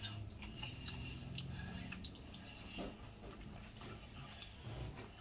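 A man quietly chewing food, with soft wet mouth clicks. A low steady hum over the first two seconds is the loudest sound.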